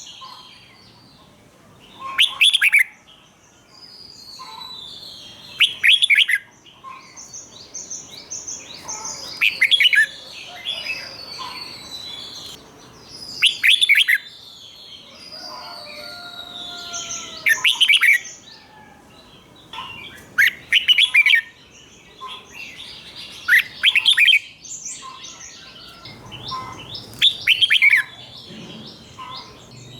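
Red-whiskered bulbul singing: loud, short, bright song phrases repeated about every three to four seconds, with softer chattering notes in between.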